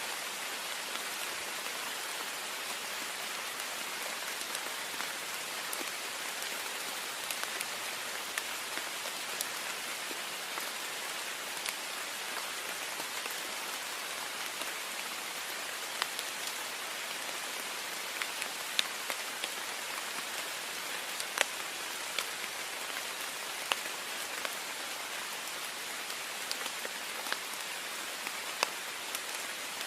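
Heavy rain falling steadily in a dense, even hiss, with separate sharp drop ticks against a window pane here and there, more often in the second half.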